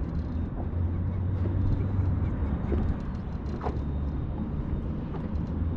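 Boat motor idling steadily with a low hum, a few faint short clicks over it.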